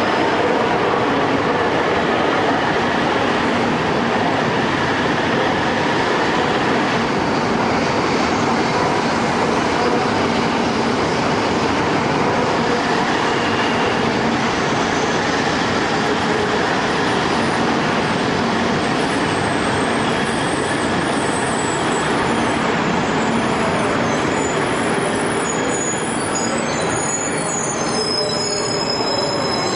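Shinkansen train pulling out of the station past the platform, a steady rush of wheels and running gear. In the last ten seconds high-pitched wheel squeal joins in as the cars take the curve out of the station.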